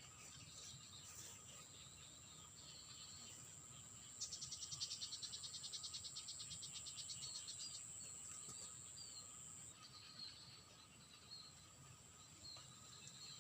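Faint wild outdoor sound: a steady high insect drone, joined from about four to eight seconds in by a rapid pulsed trill, then short high chirps scattered toward the end.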